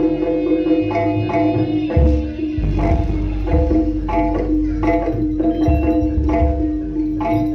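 Live Javanese traditional music: hand drums and struck gamelan-type percussion beating a steady rhythm of about two strokes a second, over a continuous held tone.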